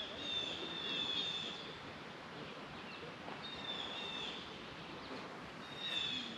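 A songbird singing short phrases of high, downward-slurred whistled notes three times: at the start, about three and a half seconds in, and near the end, over faint steady background noise.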